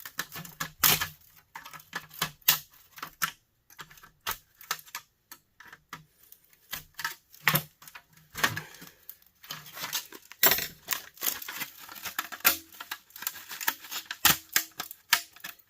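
Irregular sharp clicks, snaps and knocks of hard plastic and small metal parts being pried at and handled as a small plastic electric heater is taken apart for scrap. The clatter comes thickest about two-thirds of the way through.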